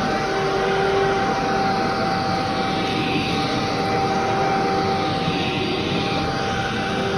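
Vacuum cleaner running steadily over carpet, a constant motor whine over the airflow noise, with a lower hum that comes and goes.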